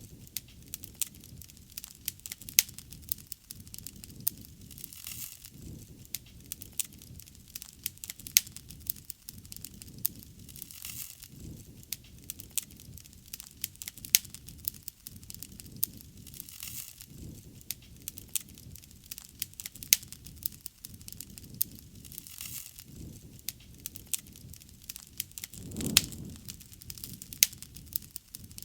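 Wood bonfire burning: frequent irregular sharp pops and crackles over a low, wavering rush of flame, with a louder low swell of flame noise near the end.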